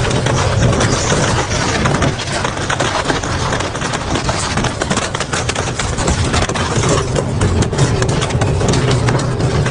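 Double-shaft metal shredder running under load: a steady low drive hum with a dense stream of sharp cracks and snaps as metal is torn between the cutter shafts, the cracking heaviest near the end.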